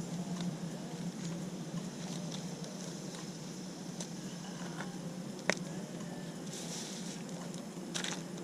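A steady low mechanical drone, with a sharp click about five and a half seconds in and another near the end.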